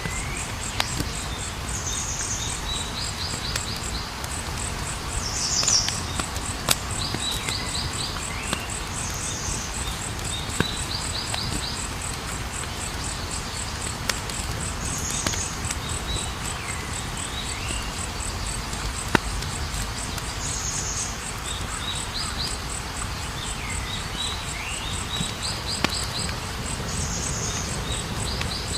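Campfire burning, with a low steady rumble and sparse sharp crackles and pops. A cricket trills steadily throughout, and a short chirping call repeats about every six seconds.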